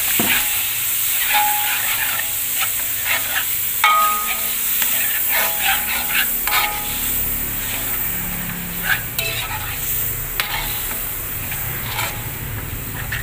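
Blended shallot, garlic and spice paste sizzling in hot oil in a metal wok, with a slotted metal spatula scraping and clinking against the pan as it is stirred. There is one brighter ringing clink about four seconds in.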